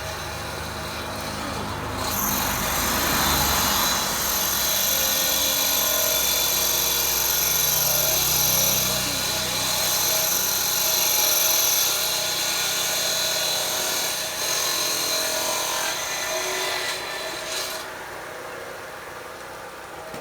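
Electric motor of a power tool running steadily for about sixteen seconds, starting about two seconds in and stopping near the end, with its pitch shifting partway through as it is loaded, while fixing the corners of a wooden bed frame.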